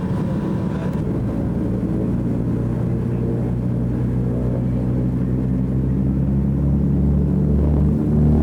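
Piston aircraft engines droning steadily, with a steady hum that grows slightly louder toward the end.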